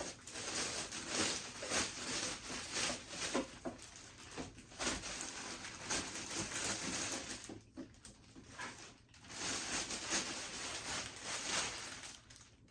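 Rustling and scratching of packaging as a new sewing machine is handled and unpacked, a dense run of small crackly noises broken by brief lulls about five, eight and nine seconds in.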